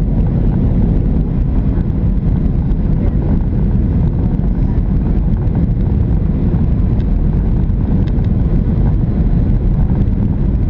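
Boeing 737-700 engines and airflow heard inside the cabin: a loud, steady, low rumble that holds even throughout.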